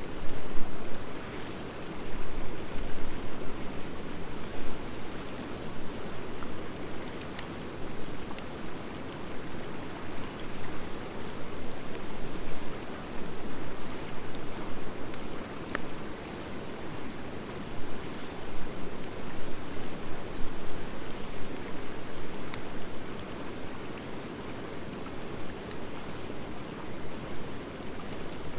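Wood fire of driftwood and dry hardwood logs burning: a steady low rush of flame with scattered sharp crackles and pops.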